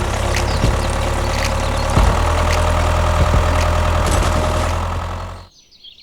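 A small engine running steadily at idle with a rumbling note and light clicks. It cuts off abruptly shortly before the end.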